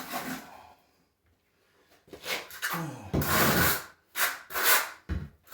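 Trowel scraping thin-set mortar in about five rough strokes, beginning about two seconds in after a short quiet spell.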